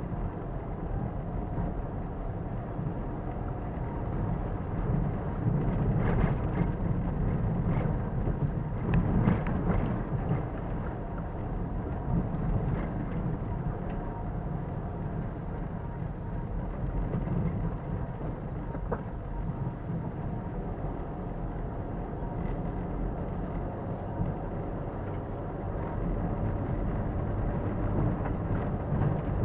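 Car driving slowly on a rough forest road, heard through a dashboard camera: a steady low rumble of engine and tyres, with a few short knocks from bumps partway through.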